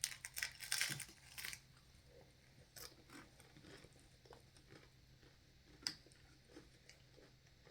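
A person biting into and chewing crunchy tortilla food: a run of crunches in the first second and a half, then quieter chewing with a few scattered clicks and one sharper crunch near the end.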